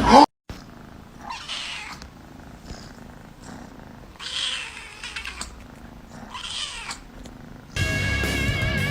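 A cat vocalizing three times, a couple of seconds apart, each cry short and fairly quiet. Music starts near the end.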